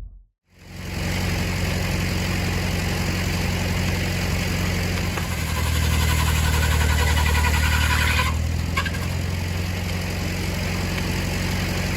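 An engine running steadily under a machine, with a constant low hum and a hiss above it. The higher hiss drops away about eight seconds in.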